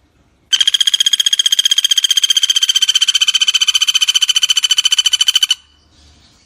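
Pelatuk bawang (common flameback woodpecker) giving one long, rapid rattling trill of about a dozen notes a second. It starts about half a second in and stops abruptly about five seconds later.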